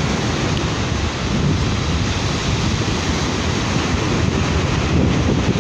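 Sea waves washing onto a beach in a steady rush, with wind buffeting the microphone as a low rumble.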